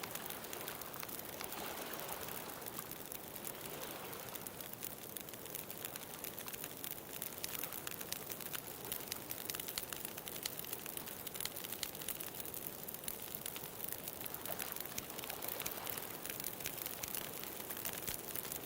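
Bonfire crackling, with many small sharp pops, over the wash of ocean waves that swells near the start and again near the end.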